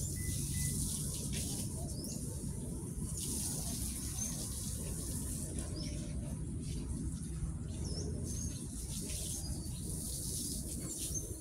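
Outdoor ambience: scattered short bird chirps over a steady low rumble and a high hiss that swells and fades.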